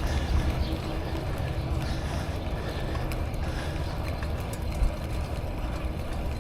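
Steady low rumble of wind buffeting the microphone of a neck-mounted action camera on a moving bicycle, with road and bike noise under it and a single thump about five seconds in.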